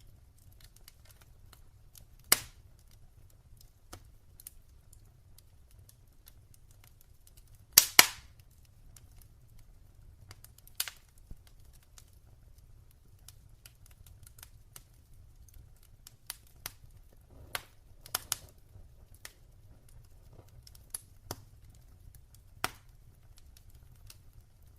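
Wood fire crackling in a fireplace: scattered sharp pops and snaps over a faint low background, the loudest a double pop about eight seconds in, with another cluster of pops about eighteen seconds in.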